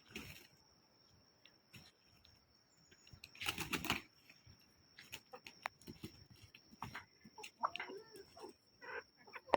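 Kadaknath roosters fighting: a loud burst of wing flapping and scuffling about three and a half seconds in, with scattered short scuffles and a few brief calls later on.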